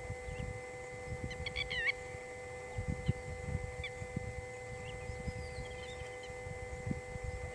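Wild birds calling: one short, harsh, hooked call about one and a half seconds in and scattered brief chirps, over a steady hum and low irregular rumbling.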